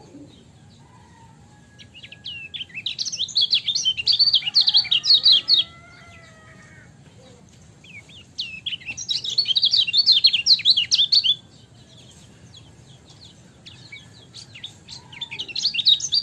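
Kecial kuning (a yellow white-eye) singing in three bouts of rapid, chattering high chirps, each a fast run of short falling notes lasting about three seconds, with scattered single chirps between the bouts.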